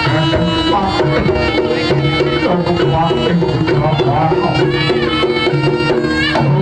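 East Javanese jaranan ensemble music: busy hand-drum (kendang) patterns under a held, wavering reed-pipe melody and sustained gong-like tones, playing loudly without a break.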